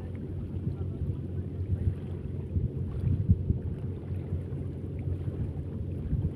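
Wind buffeting the microphone, a steady low rumble with brief louder gusts about three seconds in.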